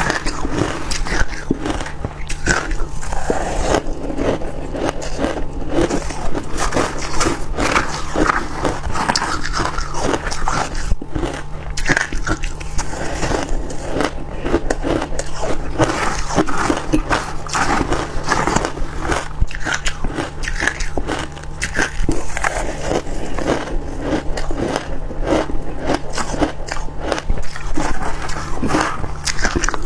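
Close-up biting and chewing of white freezer frost ice, a dense run of crisp crunches throughout.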